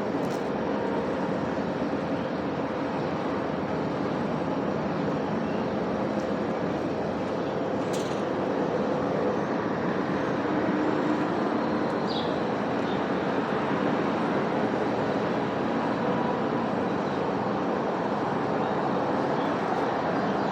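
Steady outdoor background noise of passing road traffic, with faint constant hums and a small click about eight seconds in.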